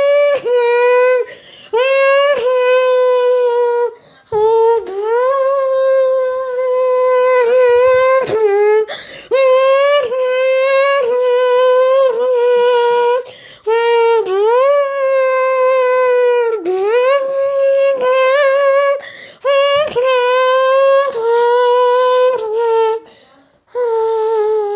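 A person imitating a car engine with their voice: a loud, held hum that wavers around one pitch, breaking off briefly and several times dipping then sweeping back up like gear changes and revs.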